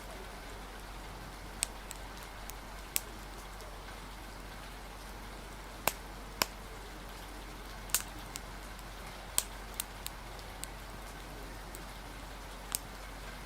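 Steady rain hiss with scattered sharp, irregular crackles and pops of a wood fire, about a dozen across the stretch.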